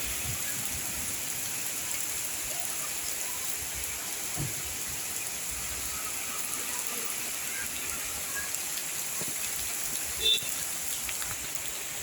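Steady rain falling, a light monsoon drizzle, heard as an even hiss. A brief, short high-pitched sound stands out about ten seconds in.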